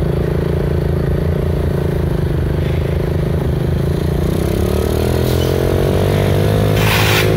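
An engine running steadily, its pitch climbing slowly from about halfway in, with a short burst of hiss near the end.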